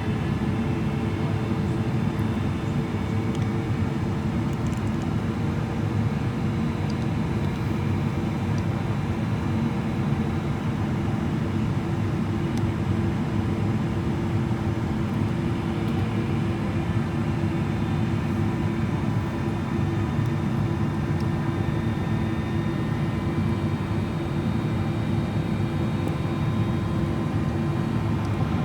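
Steady cabin noise inside a Boeing 777-300ER descending on approach: rushing air and the GE90-115B engines, with faint steady engine tones over a low, even roar.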